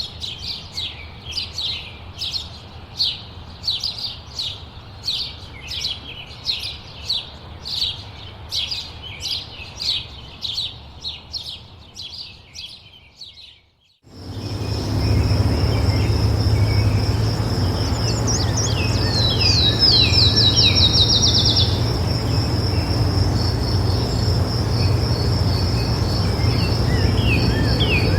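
A bird calls in a rapid series of chirps, about two a second, which fades out about halfway through. A different recording then begins with a steady high-pitched insect trill over a low rumble; a bird adds a quick falling trill a few seconds later and a few more chirps near the end.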